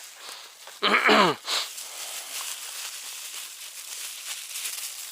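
A person's short wordless vocal sound, falling in pitch, about a second in, followed by a steady faint high hiss.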